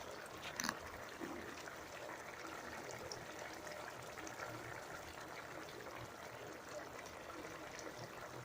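Pot of rabbit and potato stew simmering, its broth bubbling gently with a faint, steady stream of small pops. A faint click sounds about half a second in.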